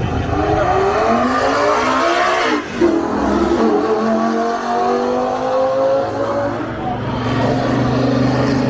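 Drag race car accelerating hard down the strip, its engine revs climbing, breaking briefly for a gear shift about three seconds in, then climbing again. Near the end the engine note settles into a steadier tone.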